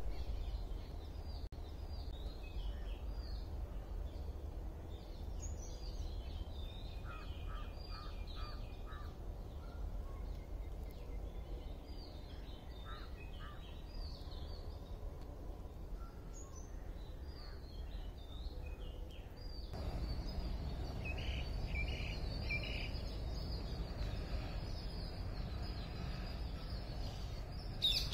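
Birds chirping and calling here and there over a steady low rumble of outdoor ambience. About twenty seconds in the rumble grows louder and fuller, and a quick rapid series of bird notes comes right at the end.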